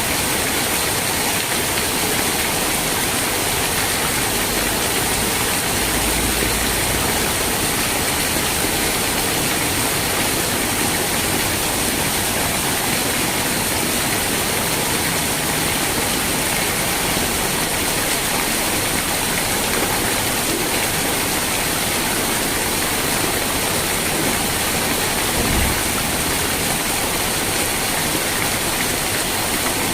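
Steady, even rain hiss with no let-up, and one brief low thud about 25 seconds in.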